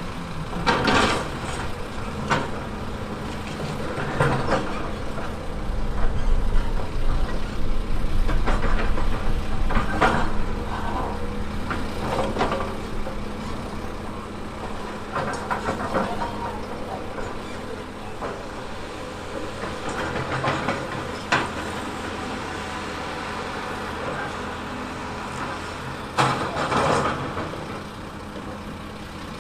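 Heavy diesel construction machine running under load, with intermittent sharp clanks and scrapes. The engine grows louder and deeper for a few seconds near the middle.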